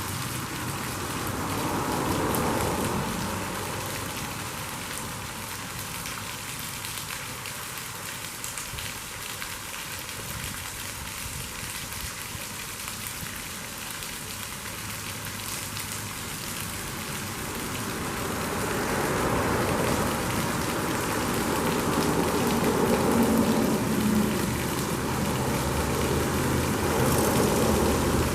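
Scott Falls splashing steadily, a dense hiss of falling water. Passing highway traffic swells up briefly about two seconds in and again from about two-thirds of the way through.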